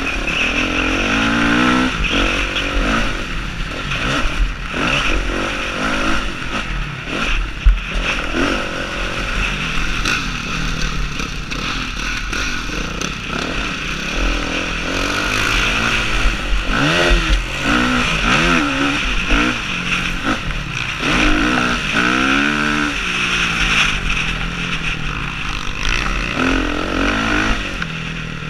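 Motocross bike engine heard from on the bike, revving up and dropping back again and again as it is ridden round a dirt track. A single sharp thump stands out about eight seconds in.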